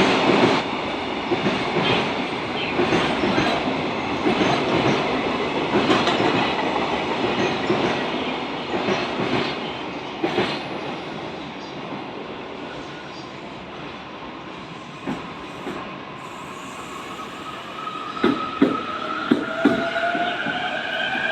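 Train running noise with rattling wheel clicks over the rail joints, loud at first and dying away over about ten seconds. Near the end the E233 series EMU's inverter-driven traction motors start a whine that climbs steadily in pitch as the train pulls away, with wheels clacking over the joints.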